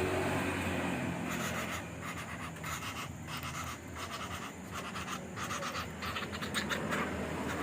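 Young flameback woodpecker chick giving rapid, raspy, breathy begging calls in quick clusters, the food call of a nestling waiting to be fed crickets.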